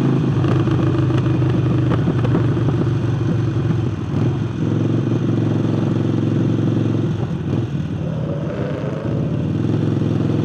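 Harley-Davidson Forty-Eight's air-cooled 1200 cc V-twin, breathing through a newly fitted aftermarket air intake, running steadily under way. The engine note dips briefly about four seconds in and shifts again between about seven and nine seconds, as the throttle changes.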